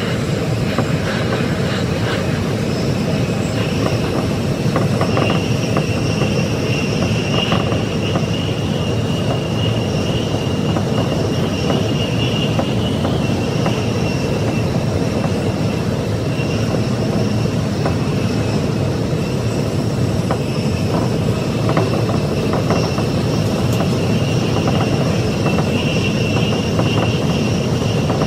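Tsukuba Express train running at speed, heard from the driver's cab: a steady rumble of wheels on track with a thin high whine over it, sped up to double speed.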